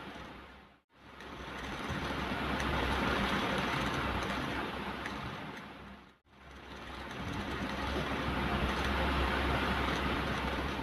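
Ocean waves: a steady rush of surf that swells and fades twice, breaking off sharply into a moment of silence about a second in and again about six seconds in.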